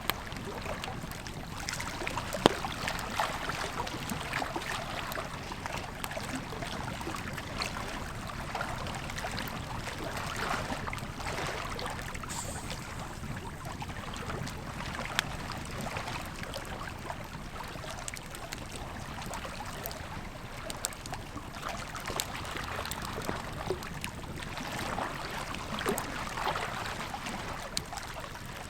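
Wood campfire crackling, with sharp pops scattered throughout and one loud pop about two and a half seconds in, over the steady rush of a flowing river.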